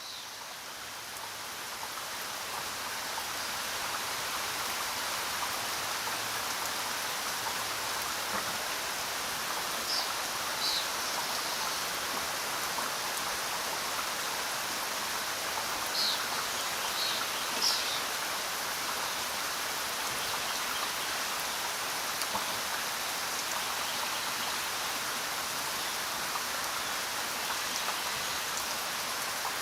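Steady rain falling, swelling up over the first few seconds and then holding even. A few short high chirps come through around the middle.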